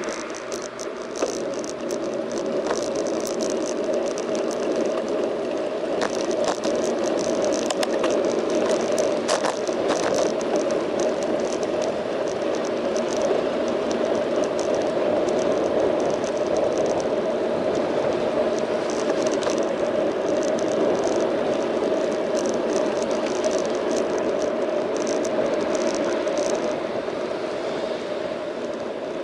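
Bicycle riding along a road, picked up through the bike-mounted action camera: a steady rumble of tyre and frame vibration with frequent small rattles and clicks.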